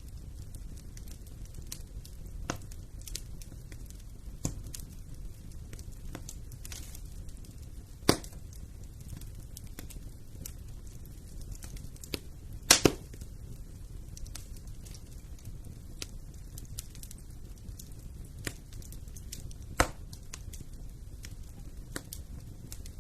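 Wood fire in a fireplace crackling over a low steady rush, with scattered small pops. The loudest are a sharp pop about eight seconds in, a quick double pop near the middle, and another pop a few seconds before the end.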